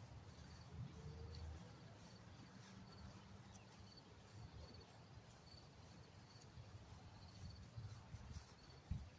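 Near silence: faint outdoor ambience with a low rumble.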